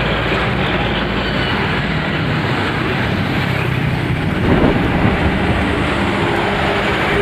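Loud, steady vehicle rumble with hiss, like a passing plane or train, played as a sound effect. It starts abruptly out of silence and holds level throughout.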